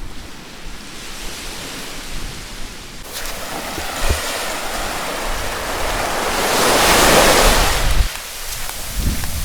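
Sea waves washing onto a beach: a wave swells from about three seconds in, peaks, and falls away near the end, with wind rumbling on the microphone.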